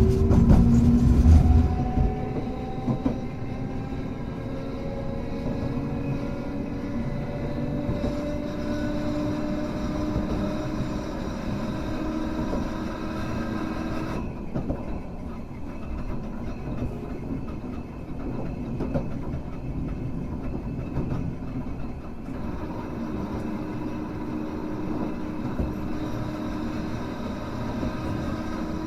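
Hankai Tramway car 351 running along the line. After a loud low rumble in the first couple of seconds, its traction motor whine climbs steadily in pitch as the tram gathers speed. About halfway through, the higher whine drops away as it coasts, and a steady hum returns near the end.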